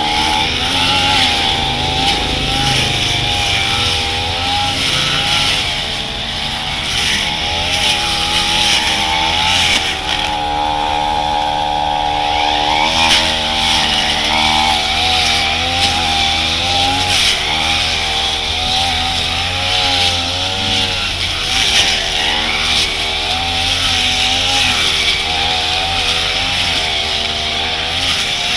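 Brush cutter with a metal blade running at full throttle through thick grass, its engine pitch wavering up and down as the blade takes the load.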